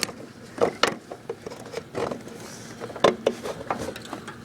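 A handful of scattered knocks and clicks from metal parts and tools being handled on a lawn tractor.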